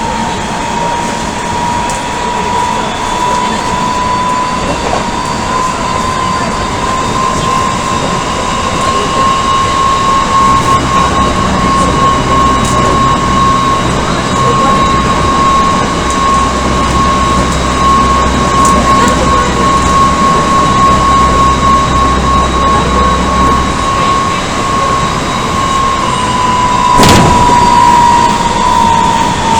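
Odakyu 1000 series electric train riding at speed, heard from inside a car: the Mitsubishi GTO-VVVF traction drive gives a steady whine at one pitch over wheel and rail rumble. The whine creeps up slightly, then begins to fall in pitch near the end, and one sharp knock comes shortly before the end.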